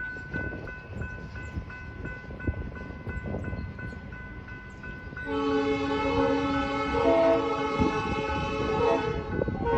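Grade-crossing warning bell ringing with a steady, even beat, then about five seconds in a locomotive's multi-note air horn sounds a long, loud chord. The horn breaks off briefly near the end and starts again.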